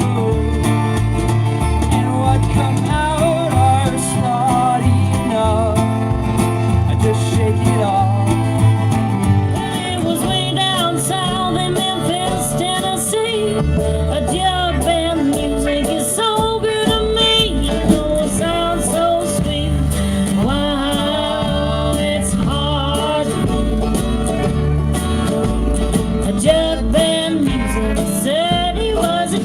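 Live band music in a bluegrass or country style, with plucked guitar and banjo and some singing; the music changes about ten seconds in.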